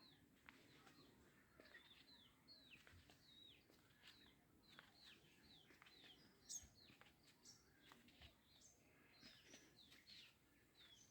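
Birds chirping faintly: many short, quick falling chirps repeated over and over, with one louder call about six and a half seconds in.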